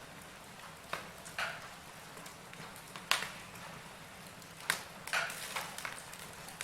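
Wood fire burning in a fireplace: a soft steady hiss with irregular sharp crackles and pops from the logs, the loudest about three seconds in and a small cluster near five seconds.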